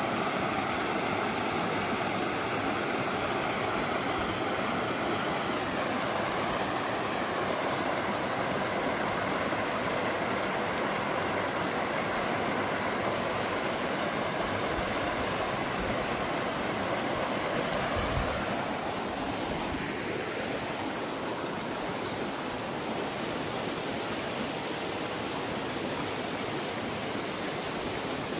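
Mountain river rushing steadily over rocks, a continuous dense noise that eases slightly later on. A few low thuds sound about two-thirds of the way in.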